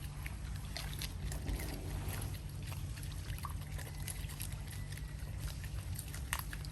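Water splashing and trickling, with a few short sharp sounds over a steady low hum; the sharpest comes near the end.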